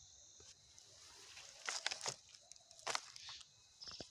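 A few short rustles and crunches, the loudest bunched about two and three seconds in, over a steady high chirring of crickets.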